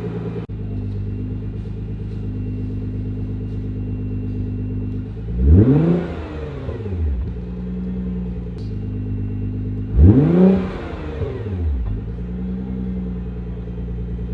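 Nissan GT-R R35's twin-turbo V6 running through an aftermarket HKS exhaust, essentially a muffler delete with two resonators. It idles steadily and is revved twice, each rev rising and dropping back to idle within about a second and a half.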